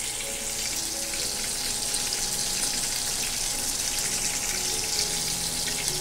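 Sausage chunks frying in hot bacon grease in a pan: a steady sizzle with fine crackling.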